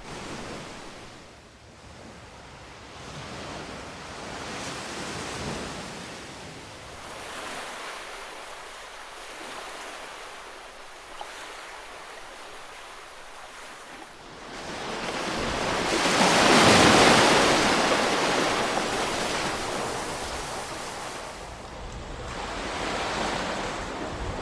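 Ocean surf washing ashore in slow swells. One larger wave breaks about two-thirds of the way through and slowly falls away, and a smaller one follows near the end.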